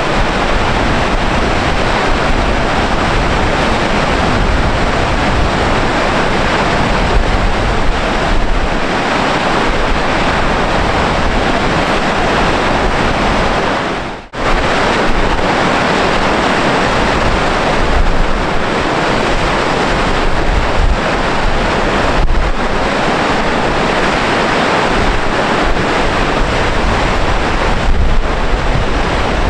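Steady roar of Gullfoss, the two-step waterfall on the Hvítá river, mixed with wind buffeting the microphone. It drops out for an instant about halfway through, then carries on as before.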